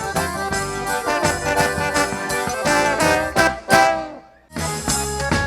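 Instrumental forró band music with accordion and steady percussion. It fades out about four seconds in, and after a brief gap another tune starts at full level.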